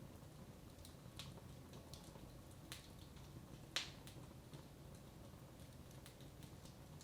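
Wood fire in a fireplace crackling faintly: a few scattered, irregular pops, the sharpest about four seconds in, over a low steady hum.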